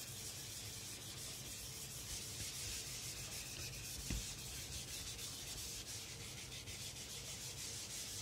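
Steady, faint scratchy rubbing sound, with a single click about four seconds in.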